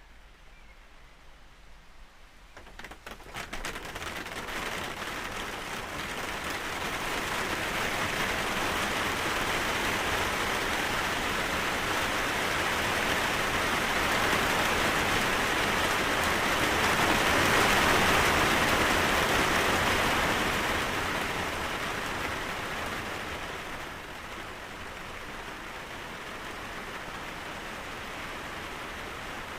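Steady rain falling, a dense hiss of drops that fades in over the first few seconds, swells to its heaviest a little past the middle, then eases to a lighter steady fall.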